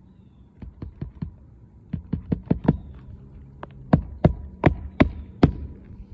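Hammer driving roofing nails into an asphalt shingle: a few light taps, then a quick run of blows and a final set of harder, evenly spaced strikes, about fifteen in all.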